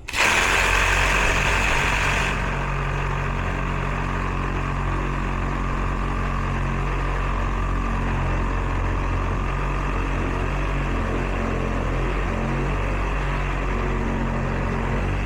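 Reciprocating saw (Sawzall) cutting through copper refrigerant line at a reversing valve, its motor running steadily throughout, with a brighter rasp of the blade in the first couple of seconds.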